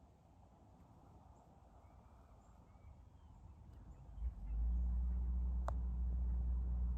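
Faint birds chirping over near silence. About four seconds in, a steady low hum starts and holds, with a single sharp click shortly after.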